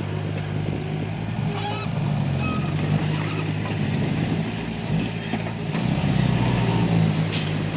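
Komatsu D31P bulldozer's diesel engine running steadily, getting louder a couple of seconds in and again near the end as it takes up load, with a sharp clank shortly before the end.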